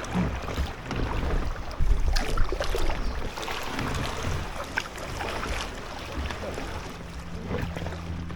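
Kayak paddle strokes splashing and dripping in canal water, with wind buffeting the microphone; a faint steady hum comes in near the end.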